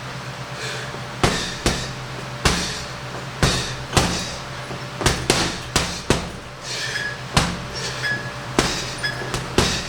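Punches landing on a heavy punching bag: sharp thuds in irregular combinations, often two or three in quick succession, about fifteen in all. A steady low hum runs underneath.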